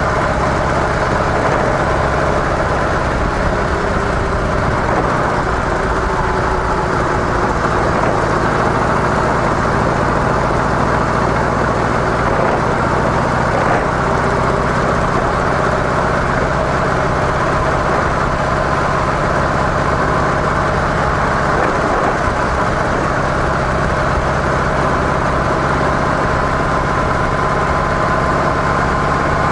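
Harley-Davidson CVO Softail Deluxe's Twin Cam 110B V-twin running steadily through its stock mufflers.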